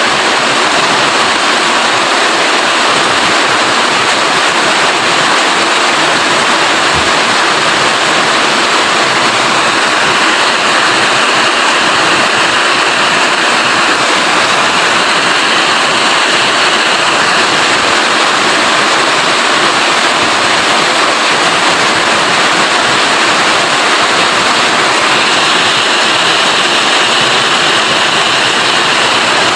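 Heavy rain falling steadily as a loud, even hiss. A slightly higher-pitched hiss swells in about ten seconds in and again near the end.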